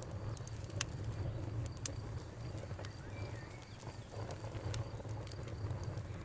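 Wood campfire burning with a steady low rumble and crackling, with sharp pops about three times. A faint high insect trill runs underneath, and a short bird call comes about three seconds in.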